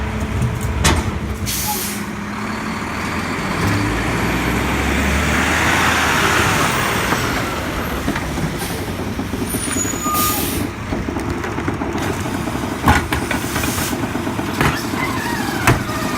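Diesel engine of a Mack LEU garbage truck running, with a long air-brake hiss that swells and fades in the middle and a few sharp knocks.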